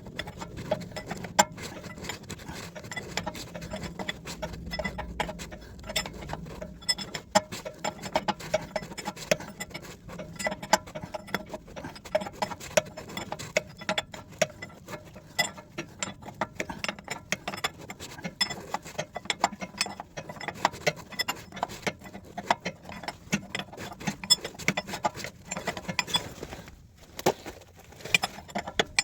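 Rapid, irregular metallic clicking and ticking from hand tools working on the engine's metal fittings, with a faint steady hum underneath early on.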